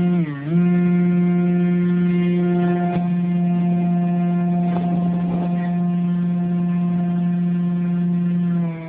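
RC model airplane motor and propeller running at a steady high throttle, a strong even drone. It dips briefly just after the start, holds steady, and throttles down near the end.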